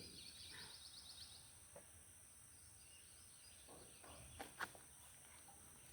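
Near silence outdoors, with a faint bird trill of rapid repeated high notes lasting about a second and a half, then two soft knocks a little after four seconds in.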